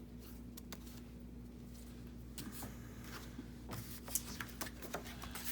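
Paper and card being handled on a craft table: soft rustles and a few light clicks and taps, scattered and more frequent in the second half, over a faint steady hum.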